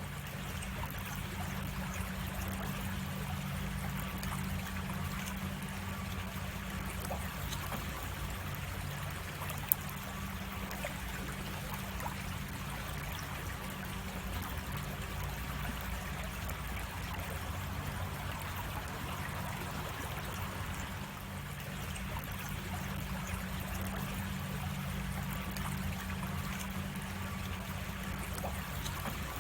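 A cascading creek, its water running and splashing steadily over rocks. There is a single brief click about ten seconds in.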